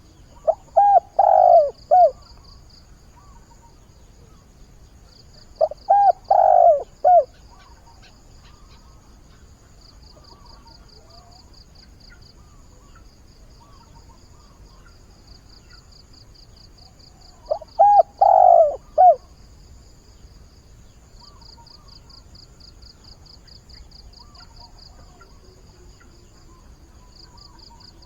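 Spotted dove cooing its mate-seeking call, three phrases of a few coos each: one near the start, one about six seconds in, and one about eighteen seconds in. Insects trill faintly and rhythmically throughout.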